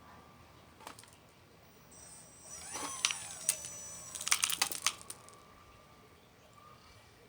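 Small electric motor of an RC construction model whining and changing pitch for a couple of seconds, with a quick cluster of sharp clicks and rattles near the middle.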